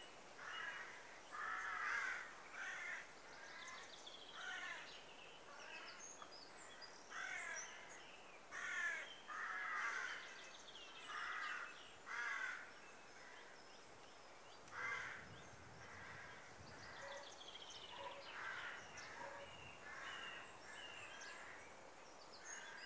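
Birds calling outdoors: a series of short, repeated calls, roughly one every second, more frequent in the first half and thinning out later, with fainter, higher chirps from smaller birds.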